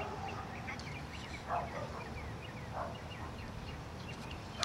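Small birds chirping repeatedly in quick short notes over a low rumble of wind. Two short, rougher sounds stand out, about a second and a half and about three seconds in.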